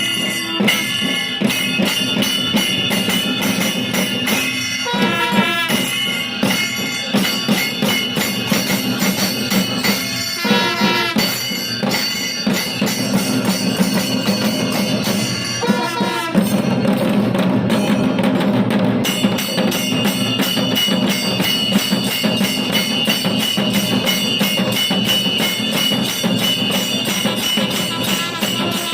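A traditional percussion ensemble playing a fast, steady rhythm on drums with cymbals or jingles, over sustained ringing tones. The drumming drops out briefly three times.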